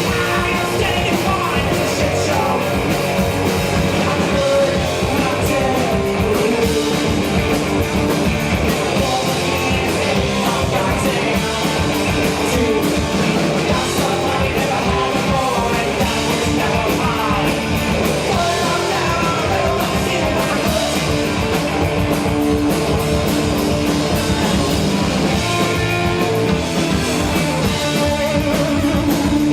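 Live rock band playing loud, guitar-driven punk rock, with a singer.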